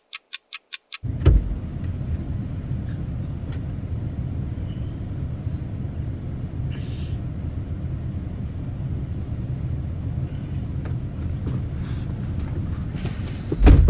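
Car cabin road noise: a steady low rumble while driving. A quick run of high beeps, about four a second, ends about a second in, and a short louder noise comes near the end.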